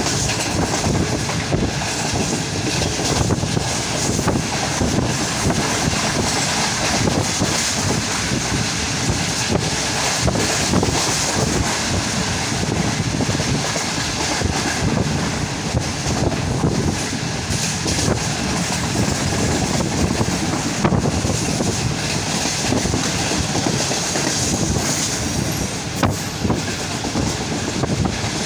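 Tezgam Express passenger coach running at speed, with a steady rumble of wheels on rail and light clicks as the wheels cross rail joints, heard from beside an open coach window with rushing air.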